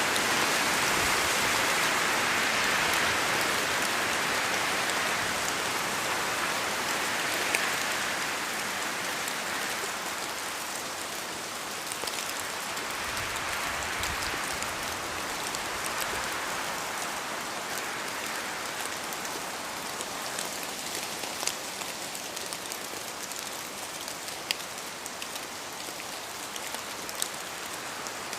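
Steady rain falling, an even hiss of rain with scattered sharper individual drop ticks. It eases off a little over the stretch.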